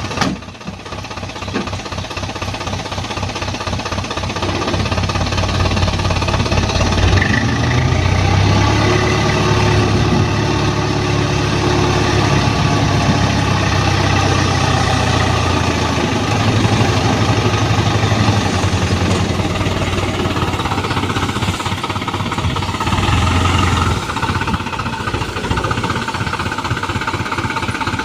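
Diesel engine of a small dump truck running, rising in revs and loudness a few seconds in and dropping back near the end.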